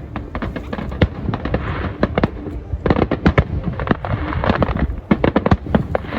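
Aerial fireworks bursting overhead: rapid volleys of bangs with crackling between them, densest in the middle and again in the later part.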